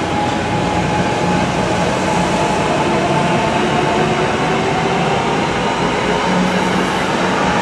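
New Jersey Transit Arrow III electric multiple-unit train passing close by at speed: a loud, steady rush of wheels on rail with a high whine running over it.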